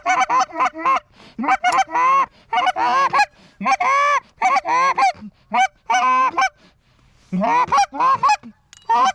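Rapid series of loud goose honks and clucks, some bending up and down in pitch, with a short pause about seven seconds in.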